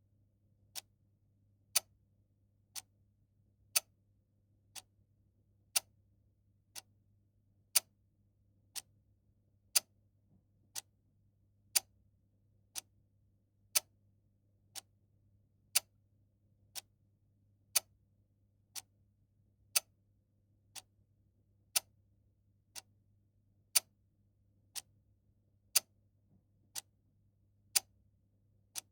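Clock ticking steadily, about one tick a second, the ticks alternating louder and softer in a tick-tock pattern, over a faint steady low hum.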